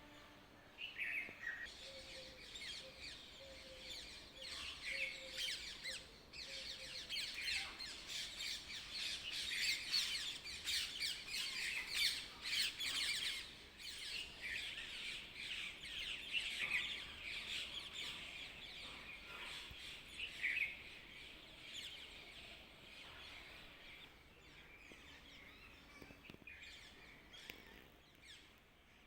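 Small birds chirping in an early-morning chorus, many quick overlapping calls that grow busiest near the middle and thin out toward the end.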